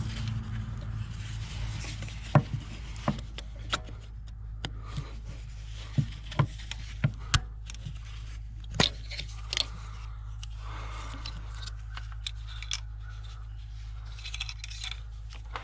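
Hand tools and engine parts being handled during disassembly: scattered sharp clicks and light metallic clinks with a few scrapes, over a steady low hum.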